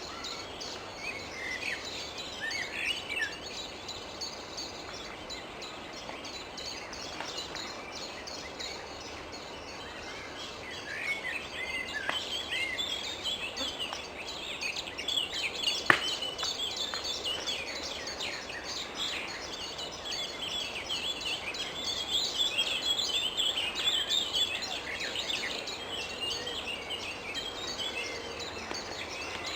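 Wild rose-ringed (Indian ringneck) parakeets calling: many short, overlapping chirping calls, sparse at first and becoming a busy chorus from about a third of the way in. A single sharp click sounds about halfway through.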